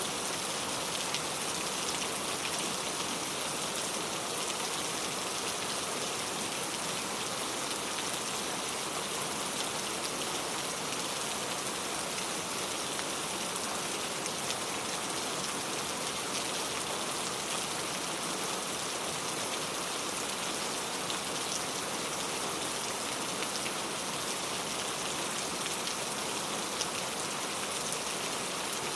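Steady rain falling, a dense even hiss with scattered drop ticks on surfaces.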